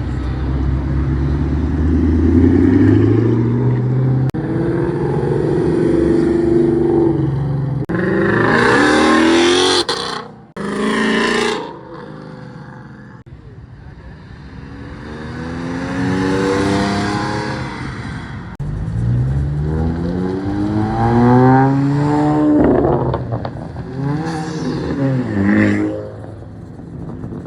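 Car engines accelerating hard and revving, their pitch climbing through the gears and then dropping as they pass by. A loud rushing noise comes in about eight seconds in, and a second engine revs up strongly around twenty seconds in.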